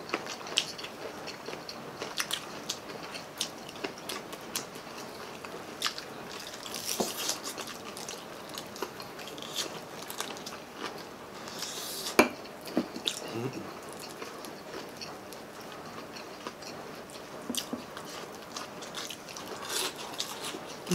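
Close-up eating sounds of crispy pata (deep-fried pork knuckle) and fried chicken drumsticks eaten by hand: biting into crisp skin and chewing, with many small scattered clicks and a few short crunches. One sharp, louder click comes about twelve seconds in.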